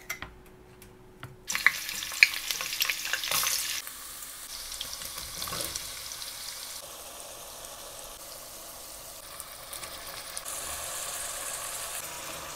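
A few light knife taps on a wooden board, then chopped zucchini hits hot oil in a steel pot with a sudden loud sizzle and a clatter of pieces landing, about a second and a half in. After that comes a steady frying sizzle.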